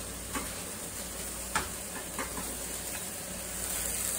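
Ground turkey sizzling in a frying pan on a gas burner, stirred with a spatula that scrapes and taps the pan a few times. The sizzling grows louder near the end.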